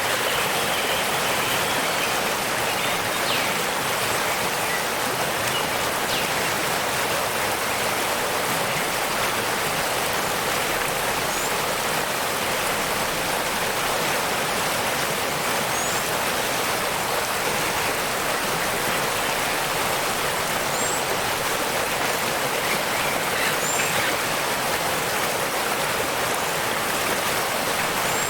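Steady rush of falling water from a waterfall or stream. A few faint, high bird chirps can be heard now and then.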